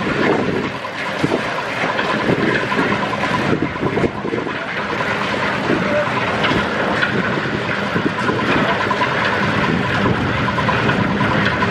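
A machine running steadily with a dense, continuous rattle and a faint, fast repeating tick.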